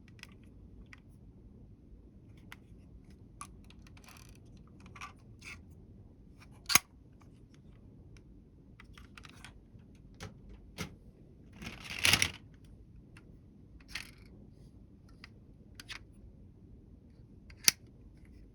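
Scattered light clicks and taps of small hard objects being handled, with two sharp clicks and a brief rustling clatter about twelve seconds in.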